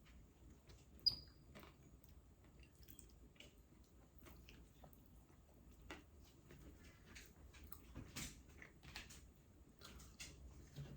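Faint eating sounds: scattered small mouth clicks and chewing noises, with one sharp click about a second in.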